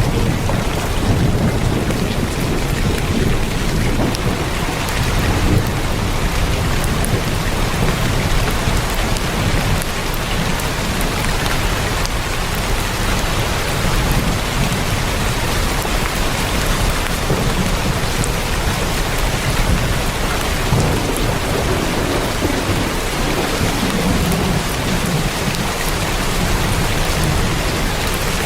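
Heavy rain drumming steadily on a tin roof, with a low rumble underneath.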